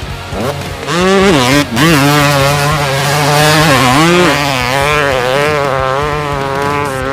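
Dirt bike engine revving: the pitch climbs steeply about a second in, then wavers up and down with the throttle.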